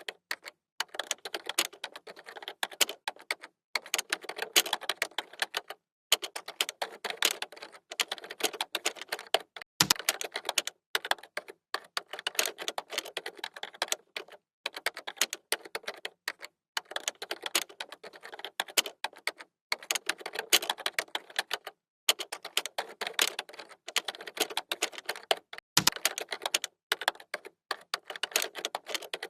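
Computer keyboard typing: fast runs of key clicks in bursts of a second or two with short pauses between, and a heavier thump twice, about ten seconds in and near the end.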